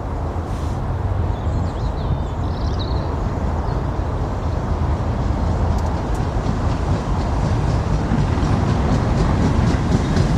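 Heritage railway train drawing near, its low rumble slowly building, with the wheels starting to click over the rail joints in a steady rhythm near the end.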